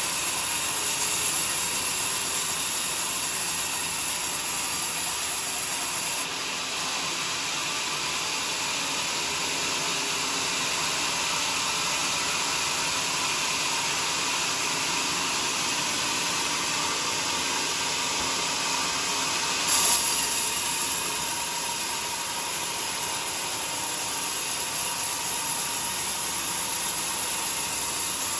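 A sawmill saw cutting a log, with a steady grinding hiss. The highest part of the hiss drops away about six seconds in and returns about twenty seconds in with a short louder moment.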